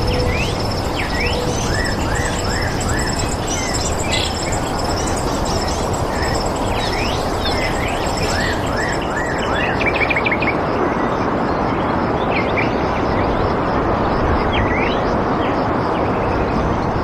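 Wild birds chirping and calling, with quick, falling, whistled notes and short trills, over a steady rushing background noise.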